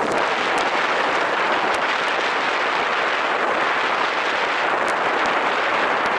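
Diesel fuel gushing from a truck-stop pump nozzle into a semi truck's fuel tank: a loud, steady rushing hiss with a few faint ticks.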